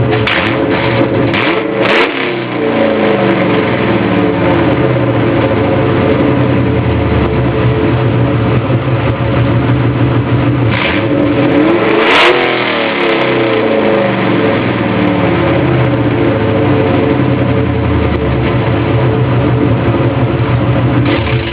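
2000 Ford Mustang GT's 4.6-litre V8 running loud through BBK long-tube headers with the exhaust cutouts open, swelling to a louder peak about two seconds in and again about twelve seconds in.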